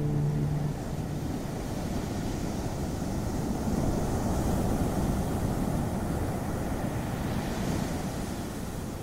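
Ocean surf washing on a beach: a steady rushing that swells about midway.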